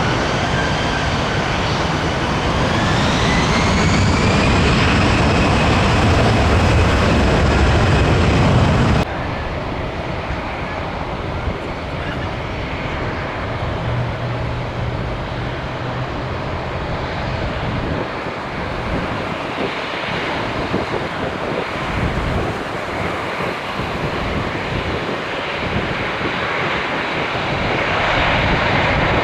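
Jet airliner engines close by: a Boeing 787-9's loud rumble with a rising whine, cut off abruptly about nine seconds in. Then a quieter, steady jet rumble from an Airbus A380, which swells louder near the end.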